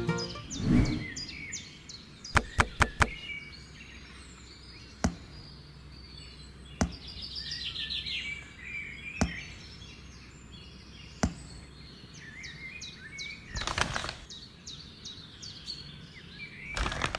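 Birds chirping in the background, with sharp wooden-sounding taps: four quick ones about two and a half seconds in, then single taps every two seconds or so. Brief swishes come near the start and again near the end.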